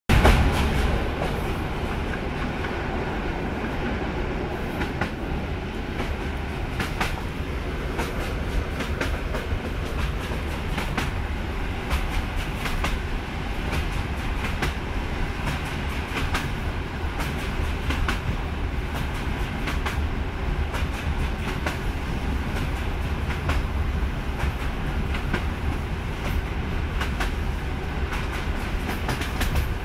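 Running noise inside a Polish EN57 electric multiple unit at speed: a steady low rumble with wheels clicking over rail joints, the clicks coming irregularly but often.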